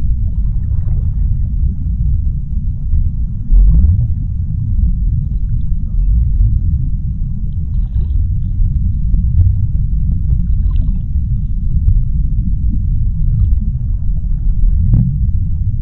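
Underwater ocean ambience: a steady deep rumble, with faint brief higher sounds now and then and a slightly stronger one near the end.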